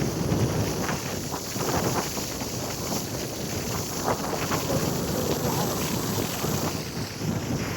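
Wind buffeting the microphone aboard a moving boat: a steady low rumbling rush with irregular gusts and no clear engine tone.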